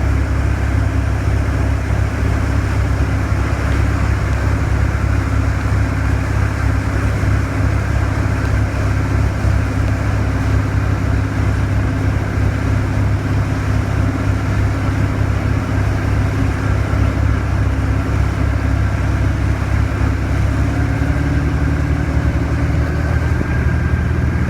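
A boat's engine running steadily at low speed with a deep rumble, its note changing slightly near the end.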